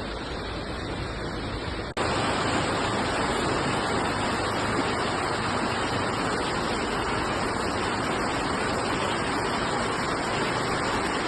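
Steady rushing noise of water, which gets louder at an abrupt cut about two seconds in.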